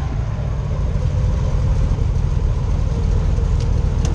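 Airboat engine and propeller running steadily at low throttle, a deep, even rumble.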